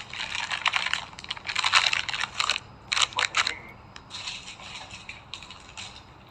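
Chocolate and snack packaging being handled: bursts of dense crackling and crinkling, loudest in the first two and a half seconds, a few sharp crackles around three seconds in, then fainter rustling.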